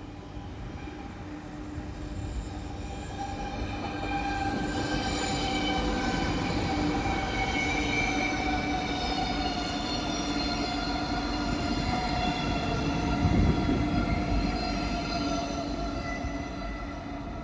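Electric train running through the station: low rumble under a whine of several steady high tones that grows louder over the first few seconds and then holds.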